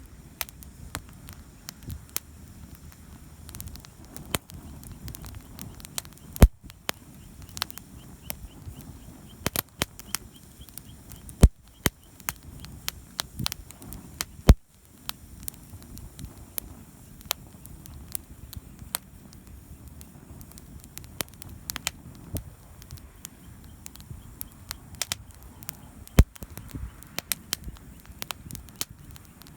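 Wood campfire crackling, with irregular sharp snaps and a few louder pops over a low steady rumble of the burning fire.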